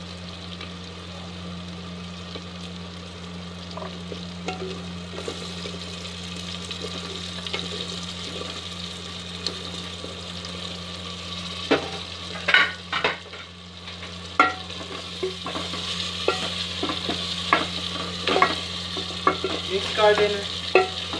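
Spiced onion-tomato masala with potato pieces and green chillies sizzling in a cooking pot, the sizzle growing louder in the second half. From about halfway through, a spoon stirring knocks and scrapes against the pot in sharp irregular clacks. A steady low hum runs underneath.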